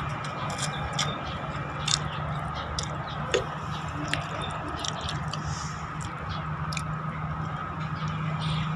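A person chewing and eating noodles, with scattered small wet clicks and smacks, over a steady low hum.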